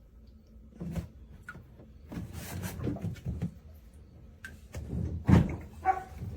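Knocks and rubbing from a plastic pet food storage container and its lid being handled, with the loudest thump a little after five seconds in.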